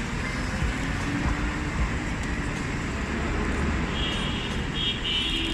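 Street traffic at a roadside bus stop: a steady rumble of passing vehicles. Two short high-pitched tones come near the end.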